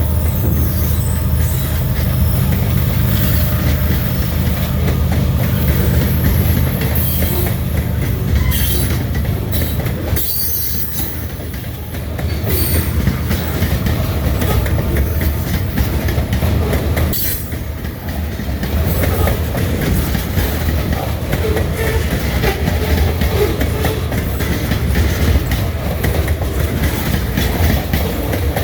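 Freight train rolling past on jointed rail: a heavy, steady rumble with the clickety-clack of wheels striking rail joints and brief wheel squeals.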